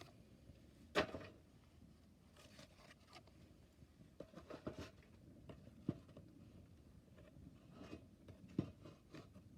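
Wood campfire crackling faintly with irregular pops and snaps, the sharpest about a second in and two more near six and eight and a half seconds.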